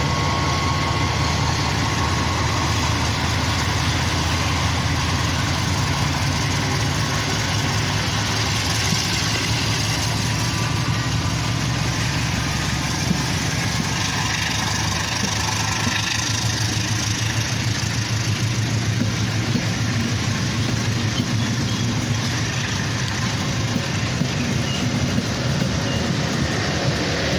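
Train's diesel engine running with a steady, loud rumble.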